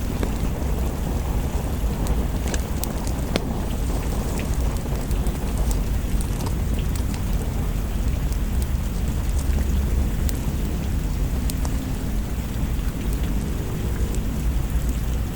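Steady rain with a continuous low rumble underneath and scattered sharp crackles from a wood fire.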